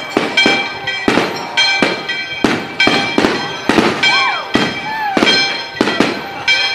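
Aerial firework shells bursting in rapid succession, a sharp bang two or three times a second, each trailing off briefly.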